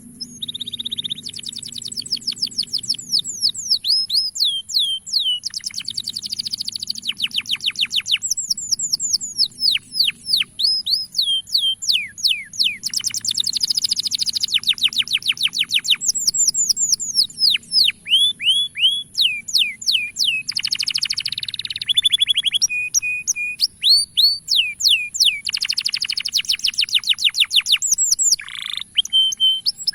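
Male canary singing: long runs of rapid falling whistled notes and fast trills, one phrase after another with brief breaks.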